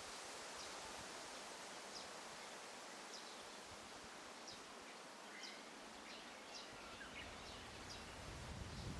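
Forest ambience: a steady soft hiss with small birds giving short high chirps about once a second, coming more thickly in the second half. A low rumble of wind on the microphone rises near the end.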